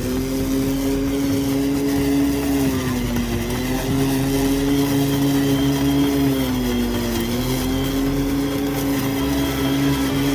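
Makita LM001C cordless lawn mower running, its electric motor and blade giving a steady hum. The pitch sags briefly twice, a few seconds apart, and comes back up each time.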